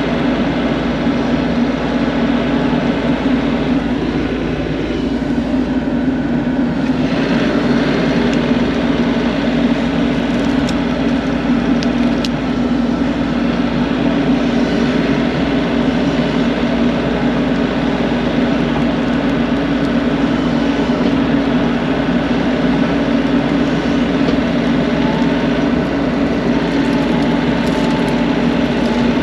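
An engine running steadily at a constant pitch, a loud, even drone throughout.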